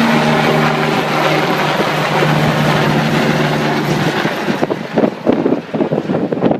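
Air-ambulance helicopter running with a steady pitched hum over rotor noise. About two-thirds of the way in the hum drops away, and strong wind gusts buffet the microphone in uneven bursts.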